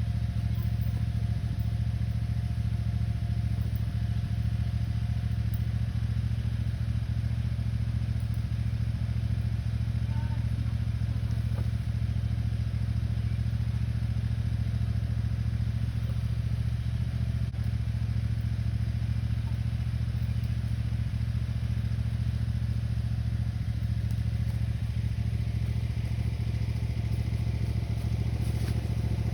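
Cub Cadet lawn tractor engine running at a steady, even speed.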